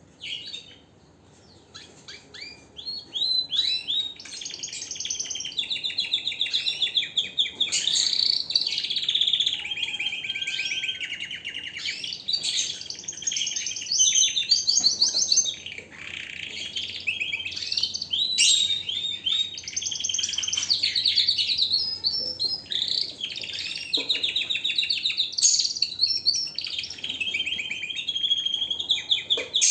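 Domestic canary singing a long, nearly unbroken song of fast trills, rolls and warbling phrases. It starts with a few short notes and a brief pause, then runs on phrase after phrase.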